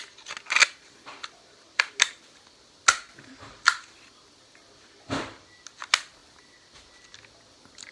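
Sharp plastic-and-metal clicks and clacks of a Smith & Wesson M&P 40 CO2 airsoft pistol being handled, its slide being worked off the frame; about eight loud clacks at uneven intervals.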